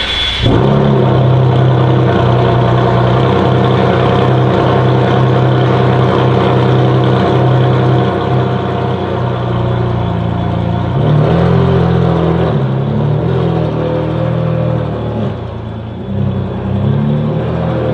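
Ferrari Enzo's V12 engine running through a straight-pipe Tubi-style exhaust: a loud, steady low drone at low revs, then a few brief rises and wavers in pitch as it is blipped or pulls away, with another rise near the end.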